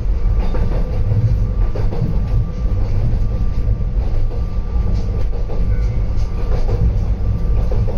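Narrow-gauge electric train running along the track, heard from inside the car: a steady low rumble with a faint constant hum and scattered clicks from the wheels over the rails.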